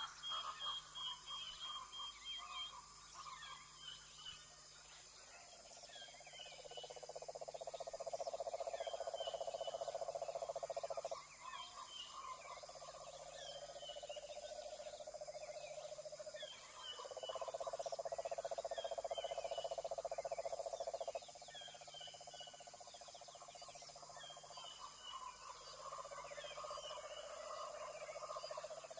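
Rainforest frog chorus: long pulsing trills several seconds each, starting and stopping in turns, over a steady high-pitched buzz and short high chirps repeating every second or two.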